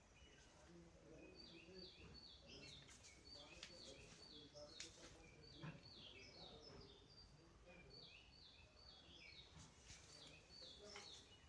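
Faint bird chirping: runs of quick, short high notes, each run stepping down in pitch, repeated many times over quiet room tone.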